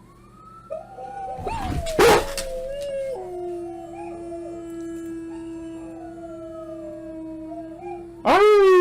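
Recorded howling played over computer speakers: several long, overlapping howls held at a steady pitch. There is a loud harsh burst about two seconds in, and a loud new howl starts near the end.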